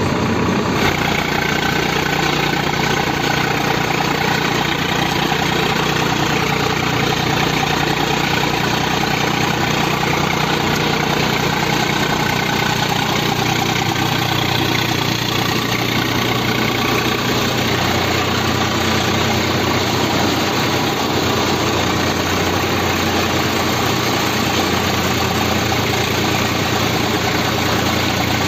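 Swaraj 744 tractor's diesel engine running steadily, its tone shifting slightly about two-thirds of the way through.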